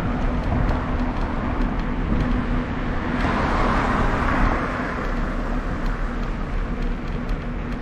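A car passing, its road noise swelling and fading over about two seconds in the middle, over steady low wind rumble on the microphone of a moving bicycle.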